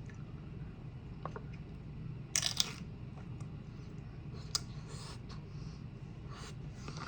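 Eating sounds: a short crunchy crackle twice in quick succession about two and a half seconds in, a sharp click near four and a half seconds, and a few faint ticks, over a low steady hum.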